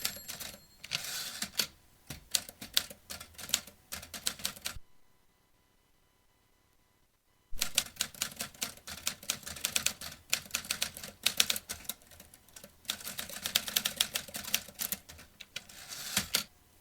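Vintage typewriter being typed on: rapid runs of key strikes clacking, a pause of a few seconds about five seconds in, then another long run of typing.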